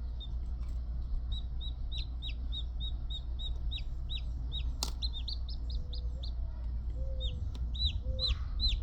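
Newly hatched chick peeping: a run of short, high peeps, several a second, with a brief pause around the middle and a sharp click about five seconds in.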